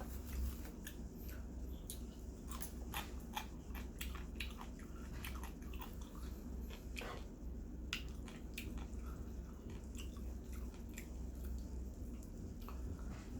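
A person chewing and biting into roasted chicken close to the microphone, with many small irregular mouth clicks.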